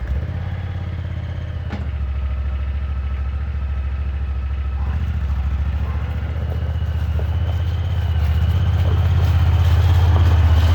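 Side-by-side UTV engine catching at once and running steadily at idle, growing a little louder over the last few seconds.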